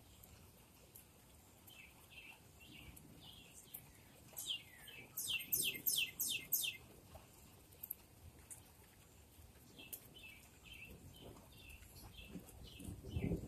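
A songbird calling: runs of short high chirps, with a louder burst of about six quick notes sweeping steeply downward near the middle.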